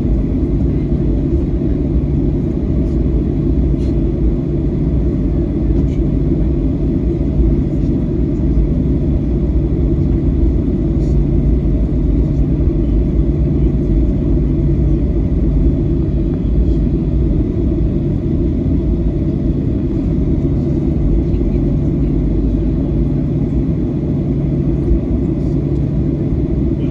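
Steady cabin drone of a Boeing 737-900 airliner in flight: engine and airflow noise, low and unchanging, with a steady low hum running through it.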